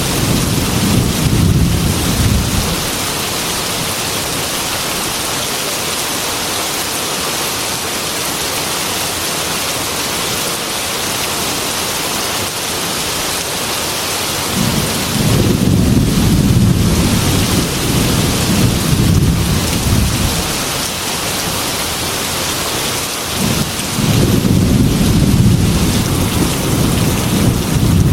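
Heavy rain falling steadily, with low rolls of thunder rumbling under it. The first roll fades out a couple of seconds in, the second rolls for about five seconds midway through, and the third starts near the end.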